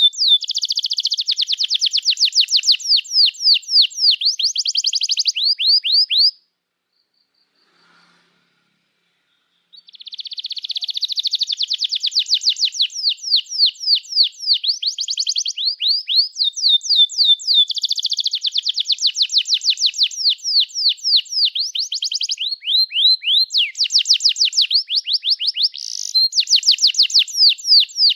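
Domestic canary singing a long, fast song of rapidly repeated chirps and trills, high-pitched. It breaks off about six seconds in for some three seconds, then takes up the song again.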